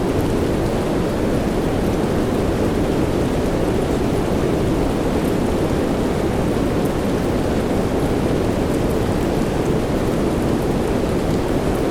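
Soft rain mixed with white noise: an even, deep hiss with no separate drops or thunderclaps.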